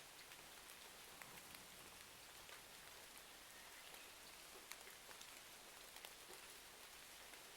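Faint, steady rain: an even hiss with scattered small ticks and pops, the sharpest about two thirds of the way in.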